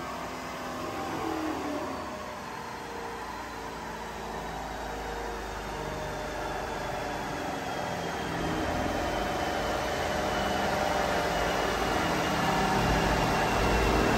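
A 2023 Chevrolet Camaro LT1's 6.2-litre V8 running under load on a chassis dyno during E85 tuning, building steadily louder toward the end. A faint high whine slowly falls in pitch.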